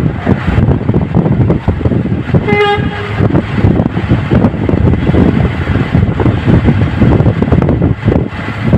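Loud wind buffeting the microphone, with one short horn toot, lasting about half a second, a little over two seconds in.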